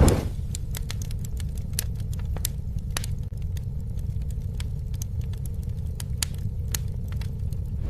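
Campfire burning: a steady low roar of flames with frequent sharp crackles and pops, and a brief whooshing surge at the very start.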